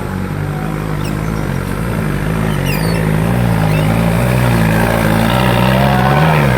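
Off-road 4x4 engine running, its pitch wavering up and down with the throttle and growing louder toward the end.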